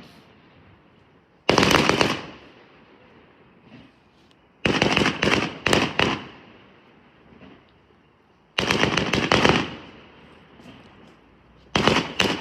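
Fireworks going off: four bursts of rapid sharp cracks, each lasting about a second, a few seconds apart.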